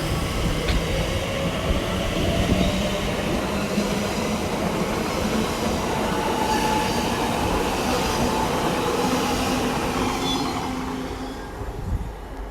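TfL Rail Class 345 electric train running through the station, a steady rail rumble with a whine from its electric drive over it, fading away near the end.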